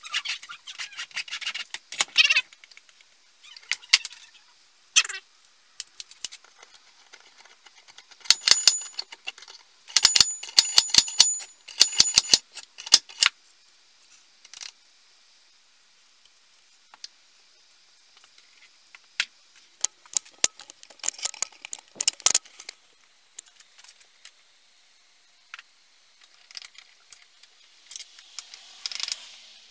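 Small metal parts and hand tools clicking and clinking as they are handled, in scattered sharp clicks with a dense run of quick clicks about a third of the way in.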